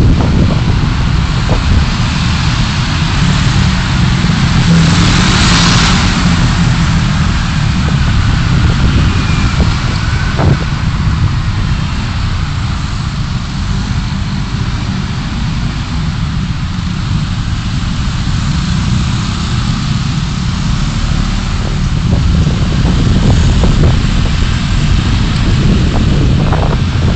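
A car being driven, with a steady low rumble of engine and road noise. The hiss briefly swells about five seconds in, and there are a few faint ticks later on.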